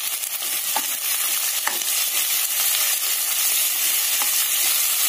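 Chopped tomatoes, onions and curry leaves sizzling in hot oil in a kadai, a steady hiss, while a spatula stirs them. A few brief knocks of the spatula against the pan sound through it.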